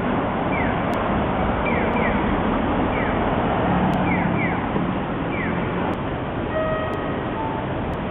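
Sapporo Namboku Line rubber-tyred subway train running through the station, a loud steady rush with short falling squeaks repeating over the first five seconds or so. A few brief steady tones sound near the end.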